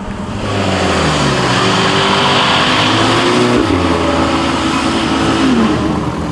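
Muscle car engine accelerating hard, its pitch climbing, dropping sharply with a gear change about three and a half seconds in, then climbing again before easing off near the end.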